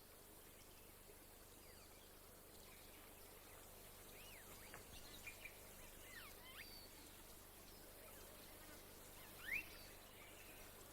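Quiet outdoor ambience with a few faint, thin bird chirps and whistles scattered through it; the loudest is a short rising whistle near the end.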